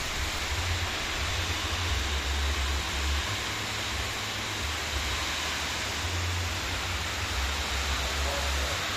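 Heavy rain pouring down, a dense, even hiss, with a low rumble coming and going underneath.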